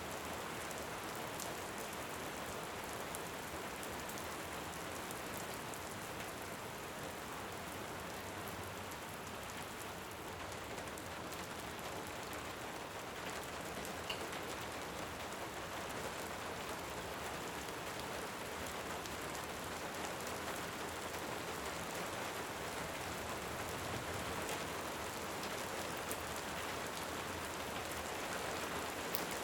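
Steady, even rainfall, with an occasional faint crackle from a wood fire, once about halfway through and once near the end.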